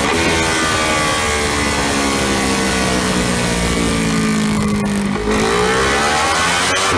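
Ducati Panigale 1299's Superquadro L-twin engine running under load on a dyno, its revs slowly falling, then after a brief dip about five seconds in, climbing steadily again.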